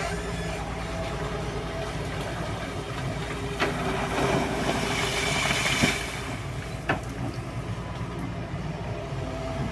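Excavator engine running steadily. About four to six seconds in there is a louder stretch of rushing noise, with a few sharp knocks.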